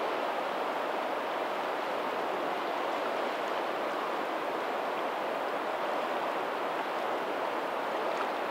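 Steady rush of water where a lagoon's tidal outflow meets the sea, with faint ocean waves. An even wash with no distinct breaks or surges.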